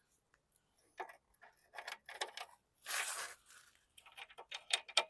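Metal hand tools clinking and rattling in short, irregular bursts as wrenches are sorted through, with a brief swishing scrape about three seconds in.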